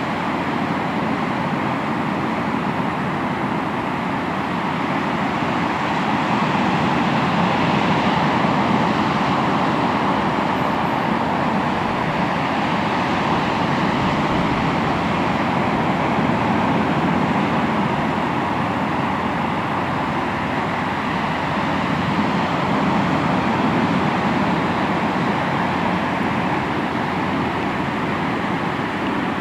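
Sea waves washing onto the shore in a continuous wash of surf, swelling slowly louder twice, about a quarter and three quarters of the way through.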